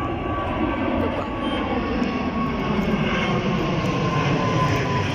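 Jet noise from a Boeing 777-300ER's GE90 turbofan engines as the airliner passes, growing slightly louder, with a high engine whine slowly dropping in pitch.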